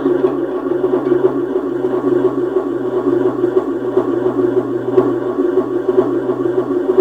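Electronic noise music from synthesizers and noise boxes: a dense, churning drone over a steady low hum that dips briefly about once a second.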